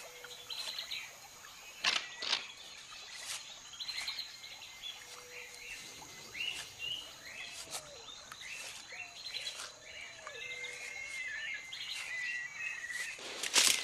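Forest birds chirping and calling in short, repeated notes, with a few lower sliding whistles and some sharp clicks scattered through.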